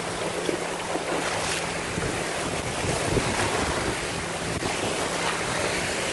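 Lake waves busting on the shore in a continuous wash of surf, with wind rumbling on the phone's microphone.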